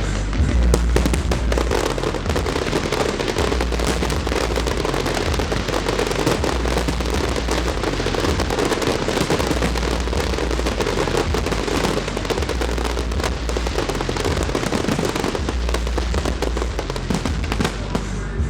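Fireworks display in a dense, continuous barrage: rapid bursts and crackling shells overlapping with no gaps.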